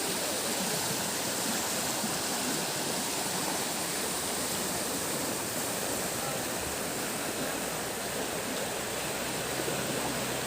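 Steady rush of flowing floodwater, an even hiss with no breaks.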